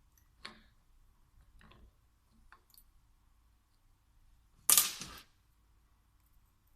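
Small clicks of metal parts and hand tools on the workbench while a VE diesel injection pump is taken apart. A little under five seconds in comes one loud, short clatter about half a second long.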